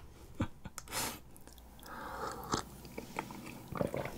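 Close-up chewing of yugwa, a Korean fried glutinous-rice confection coated in puffed rice: irregular small crisp crunches and crackles with mouth sounds.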